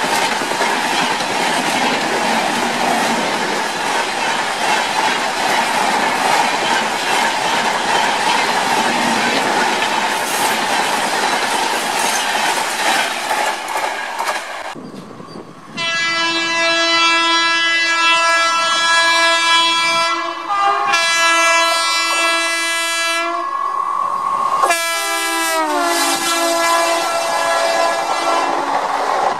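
Indian Railways passenger train coaches passing at speed: a steady rush and rattle of wheels on the track. About halfway through this gives way to a locomotive horn blowing long blasts with short breaks, its pitch dropping as the train passes near the end.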